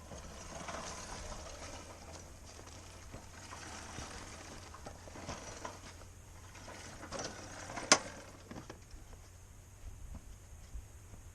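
Scraping and rustling handling noise as the motorcycle is tipped over for filling. One sharp knock comes about eight seconds in, followed by a few lighter knocks.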